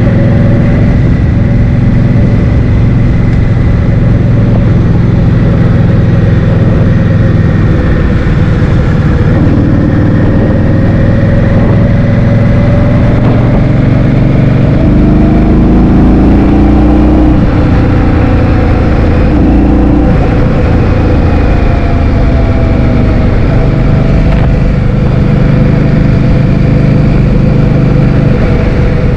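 Heavy wind rumble buffeting the microphone while riding a scooter, with a faint motor whine underneath that drifts up and down in pitch.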